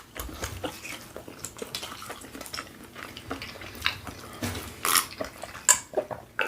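Close-up eating sounds: chewing and mouth smacks with scattered small clicks and taps, a few louder ones a little past the middle.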